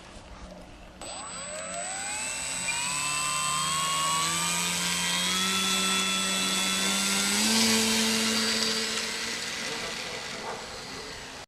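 Electric motor and propeller of an RC FunCub model plane spinning up about a second in, the whine rising in pitch as the throttle is opened for takeoff. It holds high, is loudest a little past the middle, then fades near the end.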